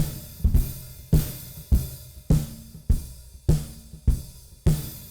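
Sampled acoustic drum kit from the Alchemy of Pop EZX in EZDrummer 3 (the Aer kit, played with sticks) playing a steady groove. A hard drum hit lands about every 0.6 seconds, with cymbals and hi-hat ringing over it.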